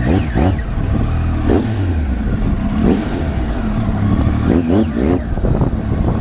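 Triumph Tiger 800's three-cylinder engine running as the motorcycle is ridden, its revs rising and falling several times.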